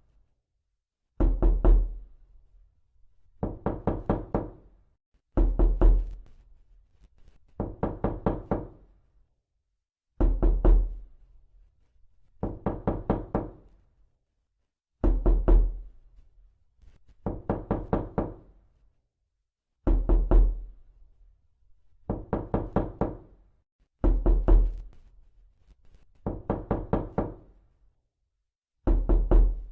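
Knocking: quick bursts of several raps each, one burst about every two seconds, with dead silence between.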